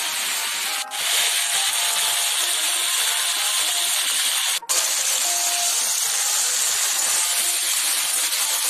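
Vegetables and hilsa fish heads sizzling steadily as they fry in hot mustard oil in a wok. The sound cuts out for a moment twice, about a second in and near the middle.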